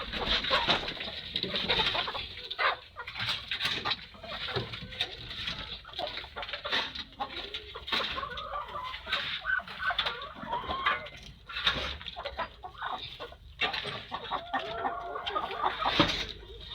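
A flock of chickens clucking and calling, many short overlapping calls, with scattered knocks throughout.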